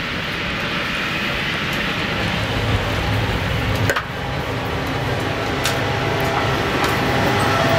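Running noise of a moving passenger train heard from inside the carriage, a steady rumble that grows gradually louder. There is a sharp click about four seconds in and a few faint ticks later.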